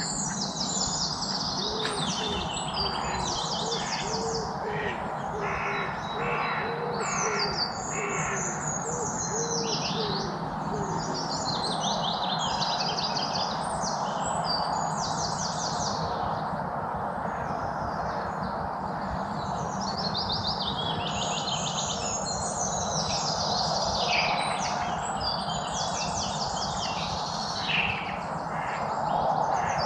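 A chorus of wild birds singing, with many overlapping high chirps and fast trills throughout. In the first third a bird gives a run of low, short repeated calls, all over a steady hiss of background noise.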